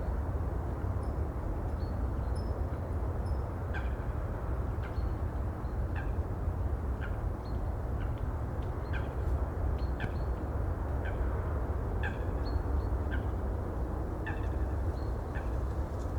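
Steady low rumble of sea and wind, with birds giving short calls about once a second and a few fainter high chirps near the start.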